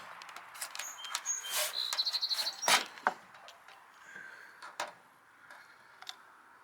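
Birds chirping, with a short fast trill about two seconds in, among a few sharp clicks and knocks, the loudest near the middle.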